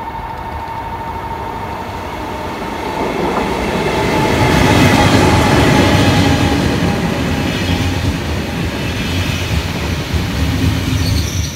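KTX high-speed electric train running past the platform: a rushing rail and wheel noise that builds to its loudest about five seconds in and then eases off, with a steady whine that slowly falls in pitch.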